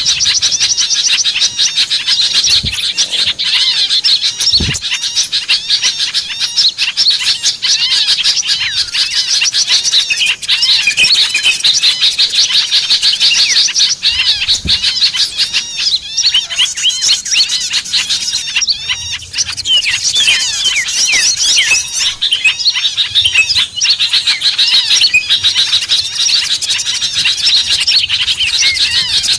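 Dense, noisy chorus of many small songbirds chirping and twittering over each other without a break. This is a bird-lure recording meant to draw small birds down. A few brief low thuds are mixed in.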